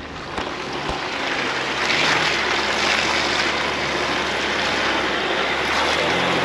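A 4x4's engine running under a loud, steady rush of water and slush that builds over the first two seconds as the vehicle ploughs through a flooded, snowy stretch of trail.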